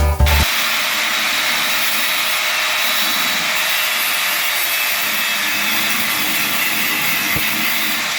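A steady, even hiss from a workshop tool or torch working on car bodywork. It starts as banjo music cuts off about half a second in.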